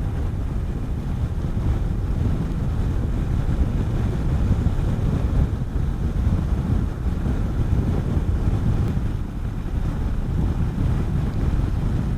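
Steady wind buffeting on the microphone of a moving motorcycle, a low rumbling rush, with the motorcycle's engine running beneath it.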